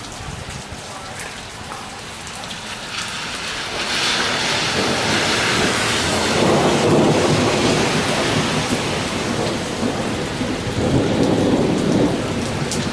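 Heavy rain pouring steadily, with a long roll of thunder that builds about four seconds in and rumbles on, slowly easing, through the rest.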